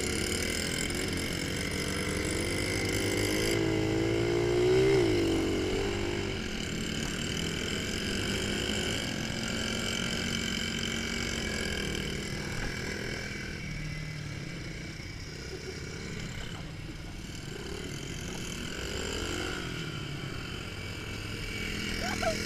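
Mini motocross bike engines running, revving up and back down about four to five seconds in, which is the loudest moment, and again more briefly near the end.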